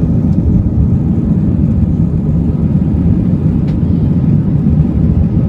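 Steady low rumble of an airliner in flight, the engines and rushing air heard as a constant deep roar.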